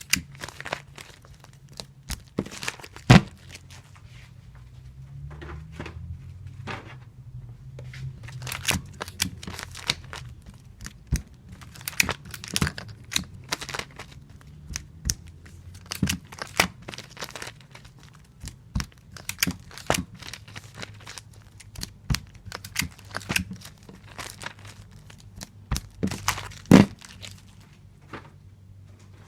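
Clear tape pulled off a tape dispenser and torn against its cutter, again and again, with crinkling as the comic books are handled: irregular sharp snaps and rips, the loudest about three seconds in and near the end, over a low steady hum.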